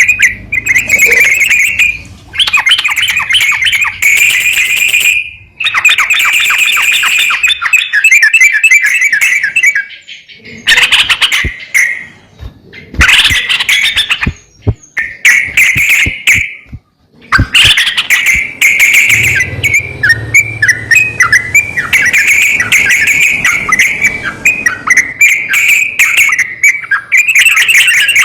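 Yellow-vented bulbul (trucukan) calling and singing in rapid, bubbly chattering phrases, in runs of a few seconds with brief pauses between them.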